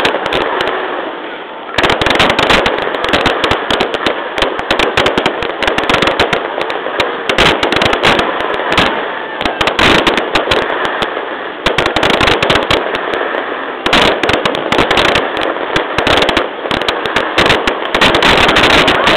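Fireworks display in full barrage: shells bursting in rapid, overlapping bangs with crackling, almost without a gap.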